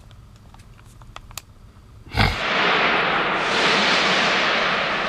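Loud industrial plant noise: a sudden bang about two seconds in, then a steady, loud hissing rush that carries on, loud enough to call for ear protection.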